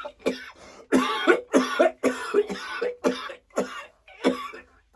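A man coughing repeatedly, about ten short harsh coughs in quick groups with brief gaps between them.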